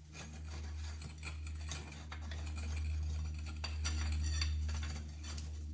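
Light metallic clinking and rattling of undercarriage rollers being handled and checked for play, over a steady low hum.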